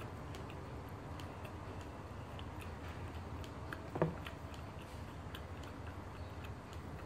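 Faint, irregular mouth clicks from chewing roti prata, with a single short, louder sound about four seconds in.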